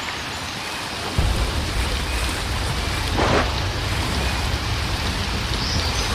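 Heavy rain falling steadily. About a second in, a low rumble of thunder sets in and rolls on, and a bird gives a few faint calls now and then.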